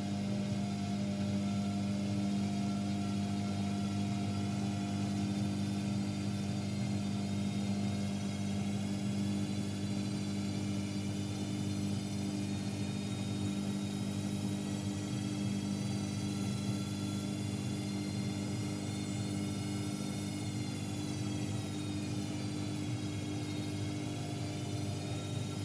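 AEG Electrolux Lavamat L74810 washing machine running, its drum motor giving a steady hum with a high whine over it. Near the end the whine dips in pitch and rises again as the motor changes speed.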